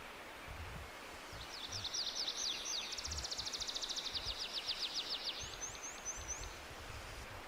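A songbird singing in a forest: a run of quick high chirps about a second in that speeds into a fast, even trill, then a few short, very high falling notes near the end of the song, over faint outdoor background noise with low rumbles.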